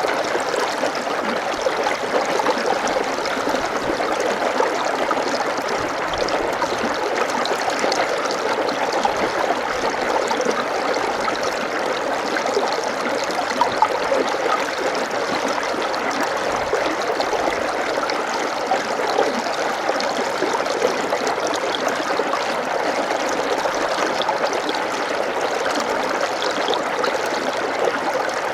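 Water running steadily in a small stream, an even, unbroken flow.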